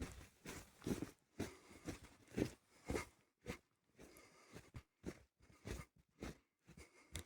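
Footsteps crunching through snow, about two steps a second at first, becoming more irregular in the second half.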